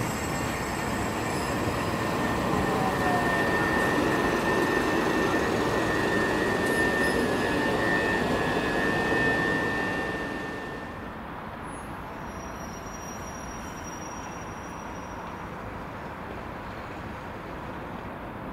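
Southern Class 377 electric multiple unit running along the platform, with rumbling and a steady high squeal for several seconds. About ten seconds in it gives way to a quieter, even background hum.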